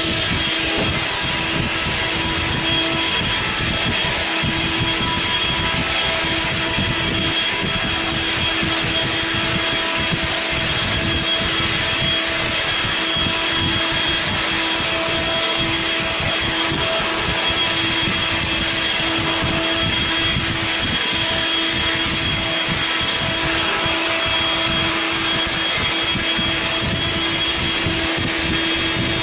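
Corded bagless Eureka vacuum cleaner running steadily, its motor giving a continuous whine over a loud rush of air.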